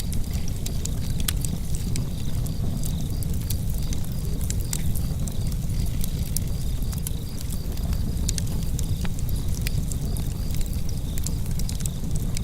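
Wood fire burning in a fireplace, crackling with many sharp, irregular pops over a steady low rumble of the flames.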